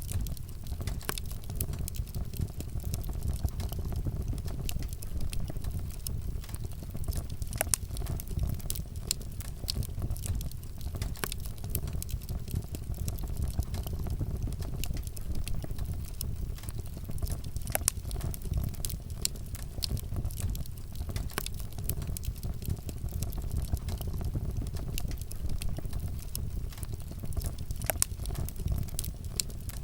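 Wood fire burning with a steady low rumble and many irregular sharp crackles and pops of burning wood.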